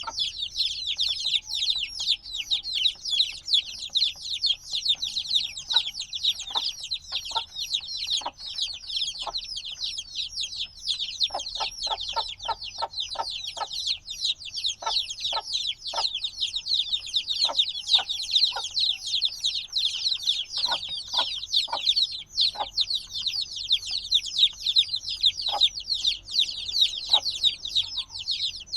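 A brood of days-old chicks peeping without pause: many overlapping high, quickly falling chirps. Scattered soft taps run underneath, with a quick run of them about twelve seconds in.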